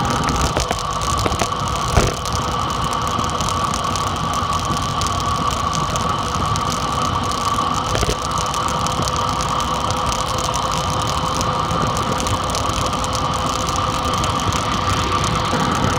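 Dirt bike engine running at a steady pitch during a ride, with two brief knocks, about two seconds in and again about eight seconds in.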